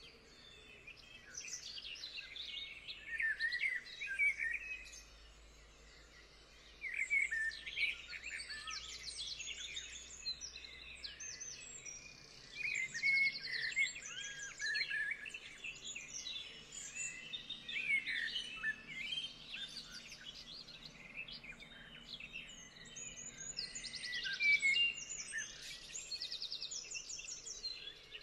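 Several songbirds singing and calling together, a busy mix of short chirps, sliding notes and fast high trills, with a brief lull a few seconds in.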